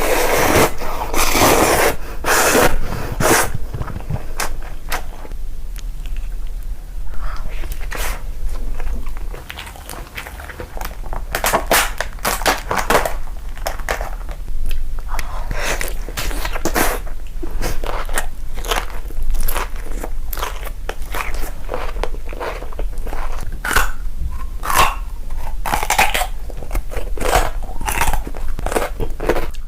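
Close-miked biting and chewing of crunchy food: many sharp crunches at an irregular pace, mixed with the wetter sounds of chewing.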